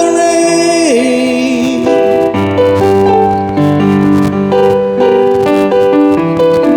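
Live band music: a long held note wavers and ends about two seconds in, then an electric keyboard carries on alone with chords and a melody.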